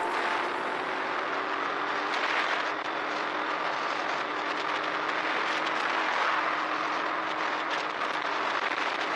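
Steady rush of wind and road noise from a moving motorcycle, with no rise or fall in pace.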